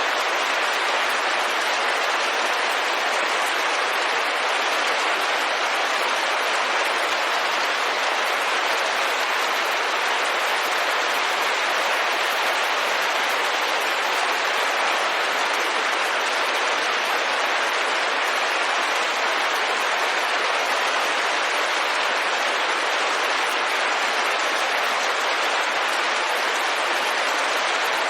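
Rain falling steadily on a window, an even hiss at a constant level.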